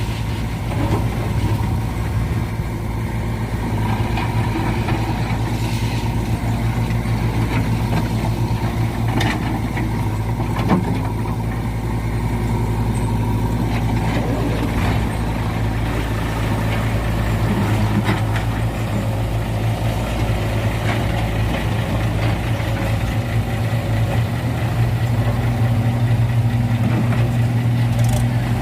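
Heavy diesel engine running steadily at low revs, with a single sharp knock about eleven seconds in and a slight rise in level near the end.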